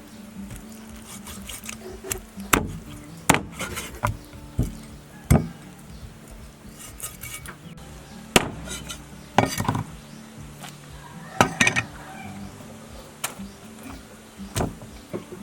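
Cooking utensils knocking and clinking, about fifteen sharp, irregular strikes, over faint background music.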